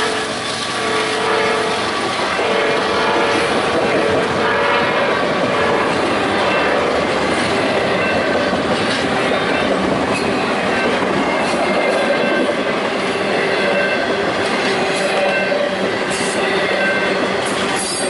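Double-stack container well cars rolling past close by, wheels clattering over the rails with short high squeals. A locomotive air horn sounds for the first few seconds.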